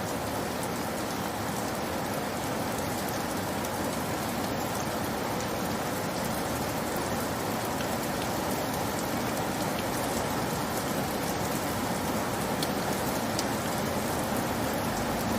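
Steady rain falling, an even hiss of rainfall with scattered faint drop ticks.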